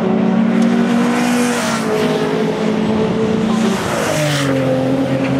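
Several racing car engines running loudly at steady, held revs, their notes overlapping. The pitch steps down about two seconds in and again about four seconds in.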